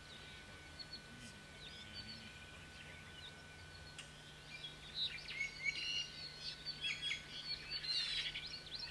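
Forest songbirds chirping and singing: a few scattered faint chirps at first, then a busy run of high chirps and warbling phrases from about halfway in.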